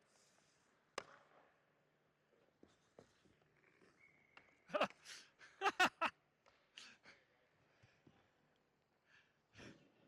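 Short, breathy exhales and gasps close to the microphone, loudest in a quick cluster past the middle, with one sharp click about a second in.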